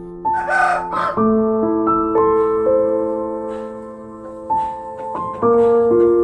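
Slow piano music playing held chords that change about once a second. A short animal call, under a second long, cuts in near the start.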